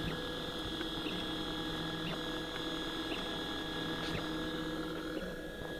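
Turnigy Fabrikator Mini 3D printer running mid-print: its stepper motors give a steady layered whine of several tones, with faint scattered ticks as the print head moves.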